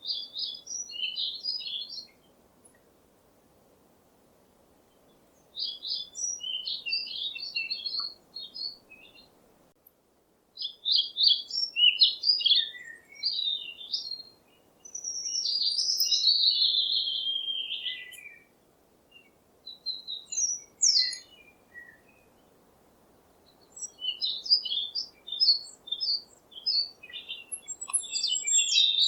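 Songbird chirping and twittering in phrases of a few seconds each, separated by short pauses, with one longer slurred warble about halfway through.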